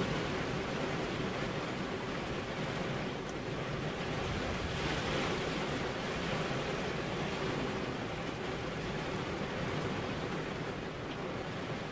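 Heavy rain falling steadily, an even dense hiss, swelling slightly about five seconds in.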